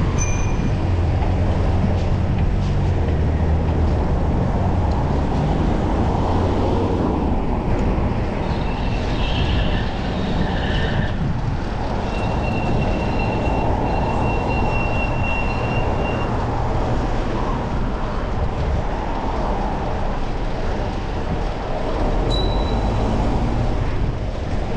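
Steady rumble of city traffic and road noise heard from a moving bicycle, with a thin high squeal held for a few seconds around the middle.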